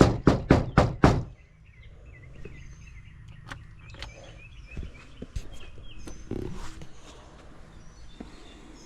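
Five loud knocks on a door in quick succession, about four a second, followed by birds chirping.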